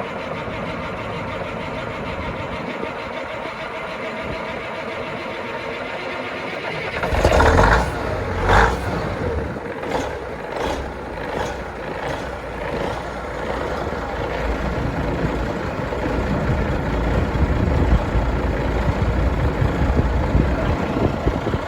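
International Transtar semi truck's diesel engine running just after a cold start: a steady idle at first, then louder and rougher from about seven seconds in, with two strong surges and a string of shorter ones after.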